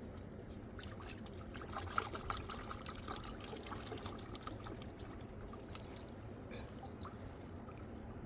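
Water trickling and splashing for about three seconds, loudest a couple of seconds in, over a steady rush of river water.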